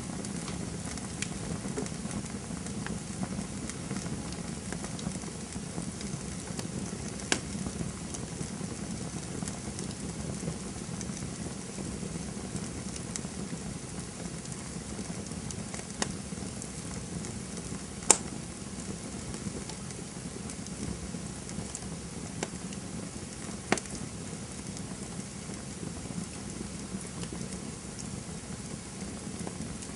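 Campfire burning: a steady low rush of flames with scattered crackles and sharp wood pops, the loudest pop about 18 seconds in.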